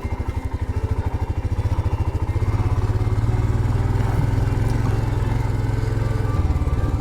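Royal Enfield Himalayan's single-cylinder engine running under way on a rough track, a fast, even low thudding beat that grows a little louder about two and a half seconds in.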